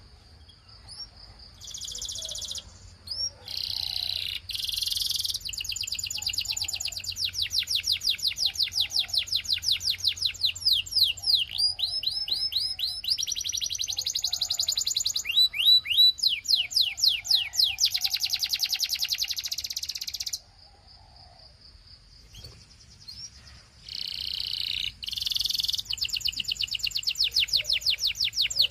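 Canary singing: long fast trills of rapidly repeated sweeping notes, broken by harsh buzzy rolls, with a pause of about three seconds late on.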